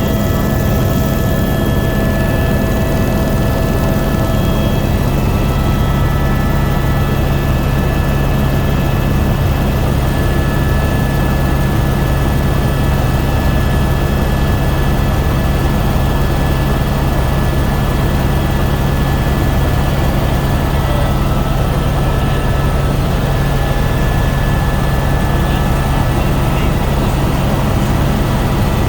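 Helicopter engine and rotor noise heard from inside the cabin: a loud, steady drone with a deep hum and a few thin, steady whining tones above it.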